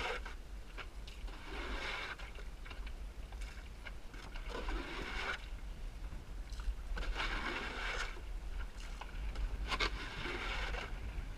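Water rushing and splashing along the hull of a small Snark sailboat in irregular swells, about five surges, over a steady low rumble of wind on the microphone.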